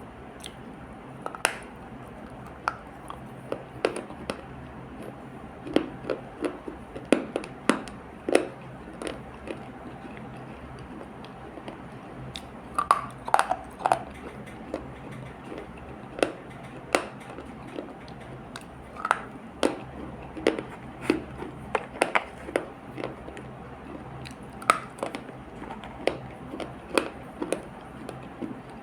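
Close-up chewing and crunching of multani mitti (fuller's earth) clay paste: irregular sharp clicks and short crunches, now sparse, now in quick clusters, over a steady low hum.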